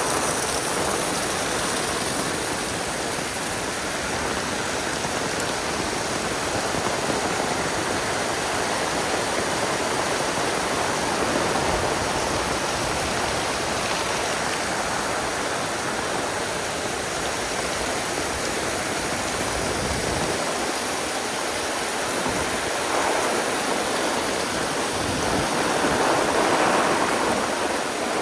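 Heavy rain falling in a steady downpour, a dense even hiss that swells slightly near the end.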